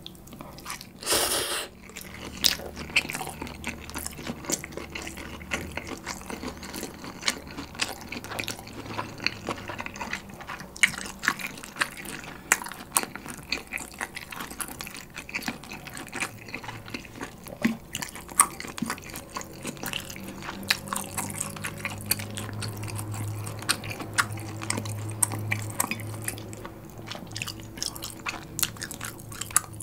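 A short slurp of bibim ramen noodles about a second in, then steady wet chewing of the noodles and pork belly, full of small mouth clicks and smacks.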